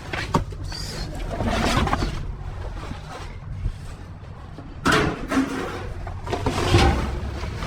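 Trash being rummaged through by hand inside a dumpster: irregular rustling and scraping of boxes and debris with a few sharp knocks, over a steady low rumble.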